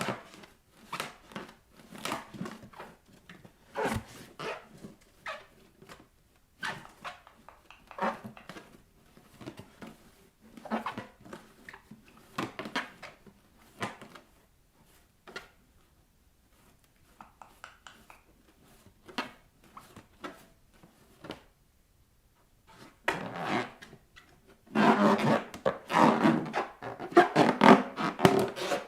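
Bare feet rubbing, tapping and pressing on inflated rubber balloons: a series of short rubbery scrapes and knocks, busiest and loudest over the last few seconds.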